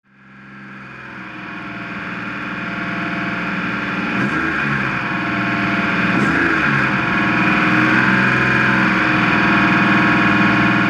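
Stockcar engine idling, heard from inside the cockpit, fading in from silence over the first few seconds. The pitch briefly rises and falls twice, about four and six seconds in.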